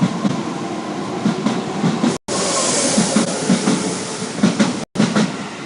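Shin-Keisei 8000 series electric train pulling out of a station, its wheels clattering over the rail joints in a steady rhythm of about three knocks a second. The sound cuts out completely for a moment twice.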